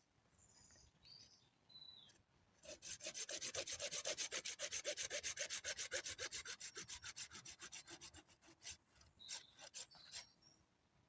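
Rapid, regular scraping strokes of a hand tool working wood, about eight strokes a second, building up about a quarter of the way in and thinning out after about eight seconds. Faint high chirps come before the strokes, and a few scattered clicks come after them.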